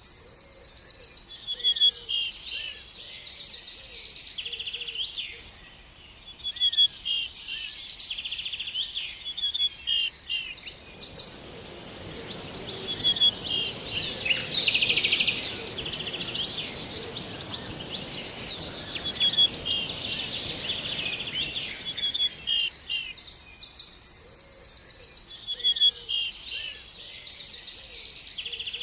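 Birds chirping and singing in quick repeated trills and short calls. From about a third of the way in until about four-fifths through, a steady high-pitched hiss and a broad rushing noise sit under the birdsong.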